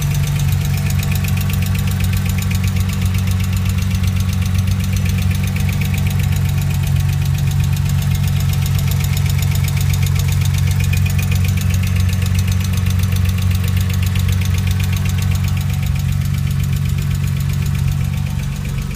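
Porsche 996 flat-six engine idling steadily with a fast, even ticking from the valvetrain: tappet noise, on the first start after the tappets on cylinders 1–3 were replaced and before full setup.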